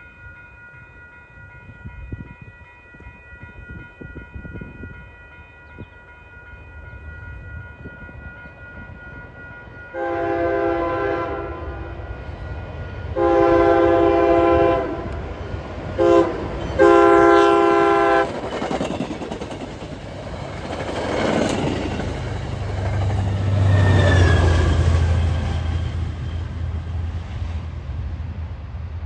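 Commuter train locomotive horn sounding the grade-crossing signal: long, long, short, long, then the train passing with a low rumble and wheel clatter that fades near the end. A faint steady tone comes before the horn.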